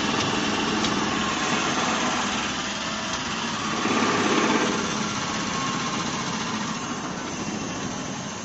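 LSHF-0-230 napkin-making machine running with a steady mechanical noise, which swells briefly about four seconds in and eases off a little near the end.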